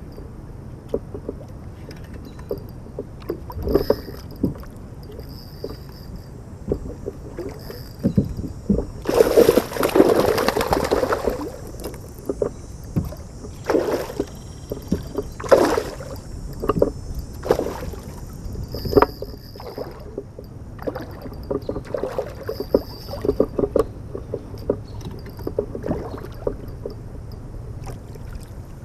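Water splashing and knocking around a fishing kayak, with a louder spell of splashing about nine seconds in. Insects chirp faintly in short repeated bursts.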